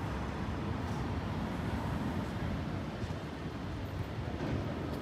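Electric passenger train running over the tracks and points, a steady rumble with a few faint clicks from the wheels.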